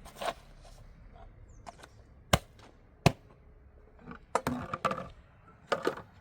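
Sharp knocks and clatter of hard objects being handled: two loud single knocks about two and three seconds in, then bursts of clattering near the end.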